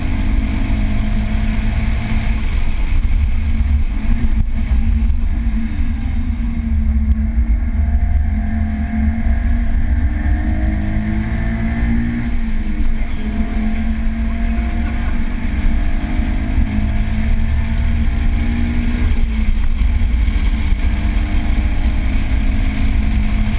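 A 2013 Subaru BRZ's 2.0-litre boxer four-cylinder engine under hard track driving, heard from inside the cabin. It runs loudly throughout, its note rising and falling with the throttle.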